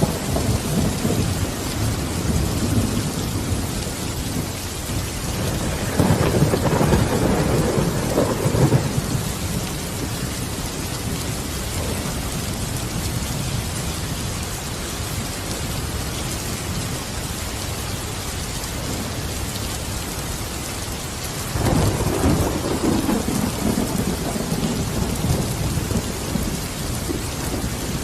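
Steady, even rain with thunder rumbling twice: once about six seconds in for a few seconds, and again about twenty-one seconds in.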